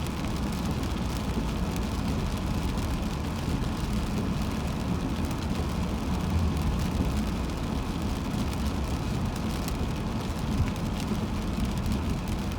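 Steady road noise of a car driving on a wet highway in rain: a low rumble of tyres and engine with an even hiss of water, and scattered faint ticks.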